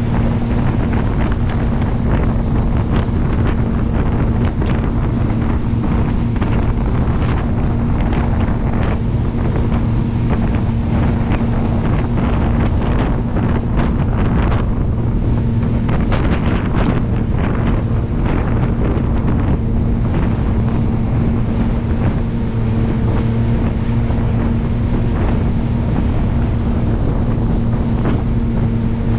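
Jet boat under way, its engine holding a steady, unchanging drone, with wind buffeting the microphone in irregular gusts.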